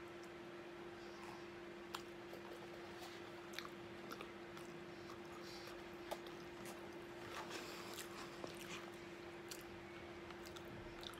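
A man chewing a mouthful of chickpeas with his mouth close to the microphone, with a few faint clicks of a metal spoon in the bowl, over a steady low hum.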